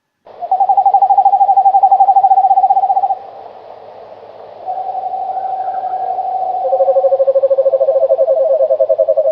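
Owls giving long, even, rapidly pulsed trills: one trill lasting about three seconds, then a second starting a little after four and a half seconds in, joined by a lower-pitched trill near the end.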